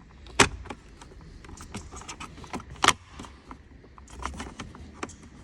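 Plastic dashboard trim being handled and pushed into place, with light rattling and scattered small clicks, and two sharp loud clicks about half a second in and near the three-second mark.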